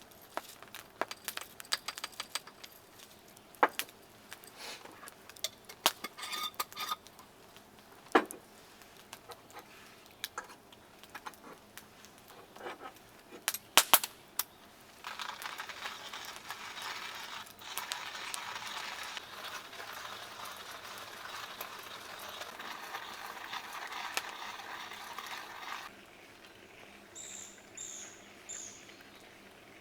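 Campfire cooking: sharp clicks and clinks of utensils and fire crackle. About halfway a steady sizzle starts suddenly and cuts off near the end, followed by three short high chirps.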